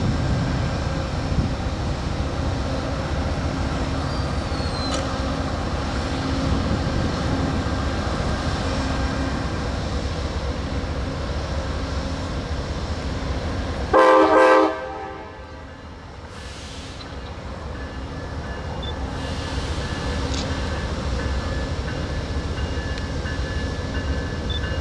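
Freight train rolling past with a steady rumble, cut by one short, loud air-horn blast about halfway through. Right after the blast the sound drops away, then slowly swells back into the same rumble.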